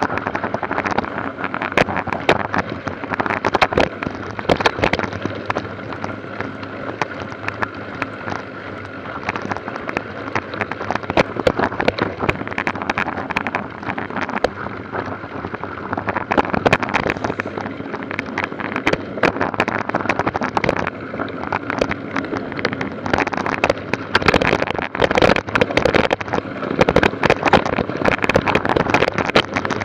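Constant rattling and knocking over a steady hum, with wind buffeting the microphone, from a moving vehicle on a rough track.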